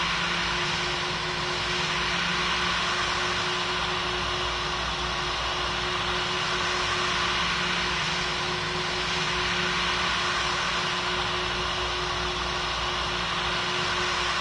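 Boeing 777 cabin noise: steady jet-engine and air noise with a constant low hum running through it.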